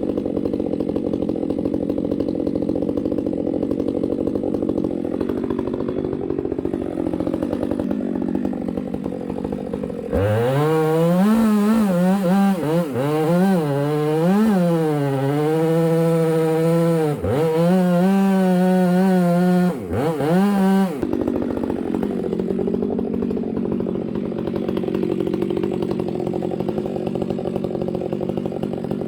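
Chainsaw running steadily. About a third of the way in it is suddenly much louder at high revs for roughly ten seconds, the pitch sagging and recovering several times as the chain bites into the wood, then drops back to the steadier drone.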